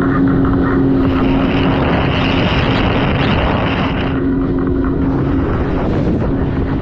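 Sea-Doo jet ski engine running steadily while underway, with a louder rushing noise from about one to four seconds in.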